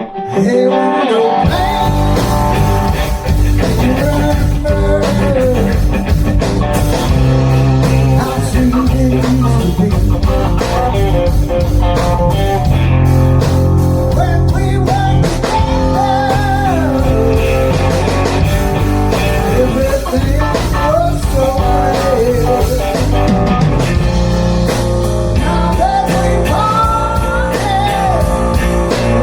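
Blues band playing a mostly instrumental passage led by guitar. The full band comes in with a heavy low end about a second and a half in.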